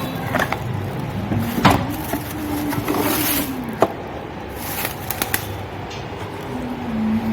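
Sharp metallic clicks and scraping from parts and tools being handled while a washing machine motor is fitted, the loudest click about a second and a half in. A low drone sounds in the background and comes and goes.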